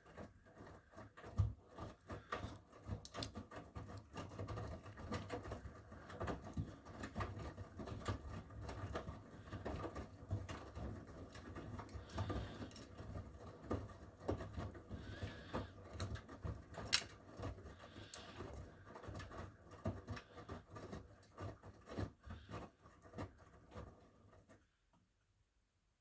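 Miele W1 front-loading washing machine in its wash phase: the drum turning with laundry and water tumbling inside, full of irregular knocks and clicks over a low rumble. The drum stops abruptly near the end, pausing between turns.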